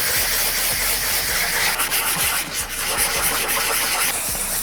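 400-grit sandpaper rubbing back and forth over a plastic headlight lens, a steady scratchy hiss as the cloudy, oxidised surface is sanded off.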